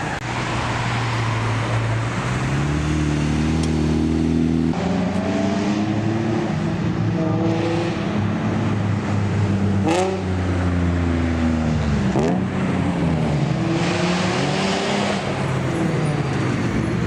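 Several car engines running and revving as cars drive past, their pitch repeatedly rising and falling. A single sharp pop about ten seconds in.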